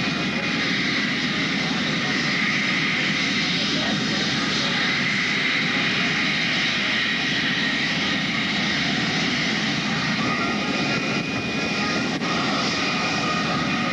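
Airplane engine noise, steady and loud, from an aircraft flying at an air show.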